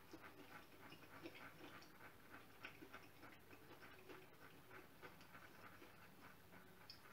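Near silence with faint, irregular wet clicks and smacks of a person chewing a mouthful of burger with the mouth closed.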